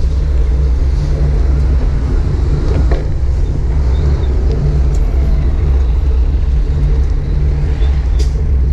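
Steady low rumble of wind buffeting and road noise on the GoPro's microphone while cycling, with a few faint clicks and rattles.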